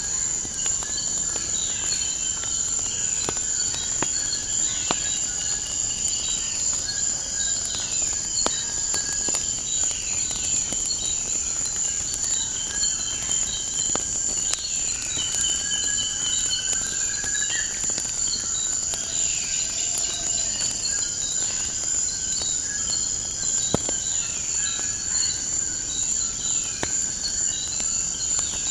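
Crickets trill in a steady high-pitched chorus while birds call with many short, falling chirps, and a wood fire gives occasional sharp crackling pops.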